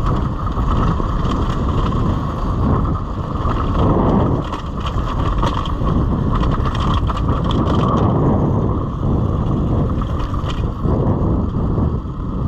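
Suzuki RM-Z250 dirt bike coasting downhill over a rough trail: steady wind rush on the microphone with a running clatter of small knocks and rattles from the bike.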